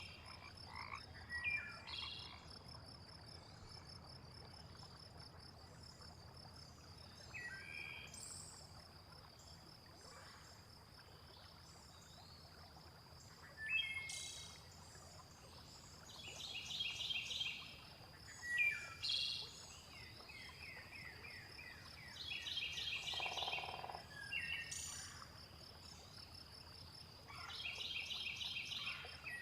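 Layered night-nature soundscape: a steady high insect trill runs throughout. Frogs call in repeated pulsed bursts every five or six seconds, and short bird chirps and calls come in between, over a faint low wash of water.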